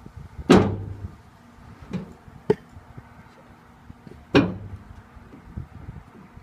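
Pieces of dry split firewood knocking as they are dropped or tossed: two loud hollow knocks, about half a second in and near four and a half seconds in, with a few lighter clacks between.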